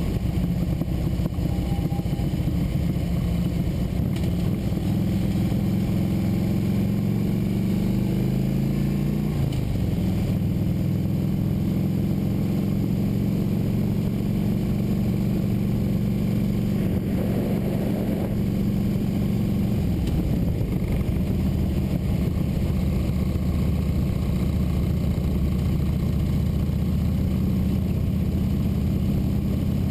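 Motorcycle engine under way, heard from the bike itself: it rises in pitch as it accelerates, drops suddenly at a gear change about a third of the way in, then runs steadily.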